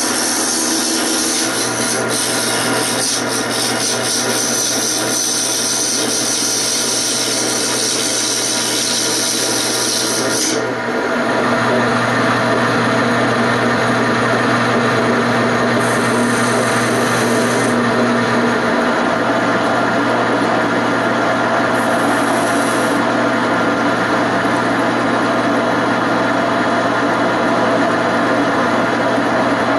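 Wood lathe running while a turning tool cuts into the spinning wooden chair leg: a steady scraping hiss over the motor's hum. About ten seconds in, the cut loses its highest hiss and sounds lower and fuller.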